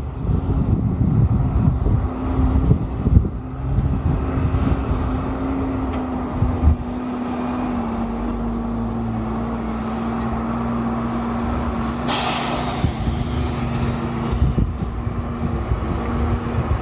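Diesel dump truck engine running steadily, with wind buffeting the microphone in the first few seconds and a short hiss about twelve seconds in.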